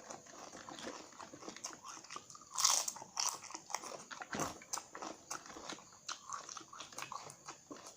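Crisp cassava chips being bitten and chewed close to the microphone: a steady run of small crackling crunches, with one loud bite about two and a half seconds in and another heavy crunch near the middle.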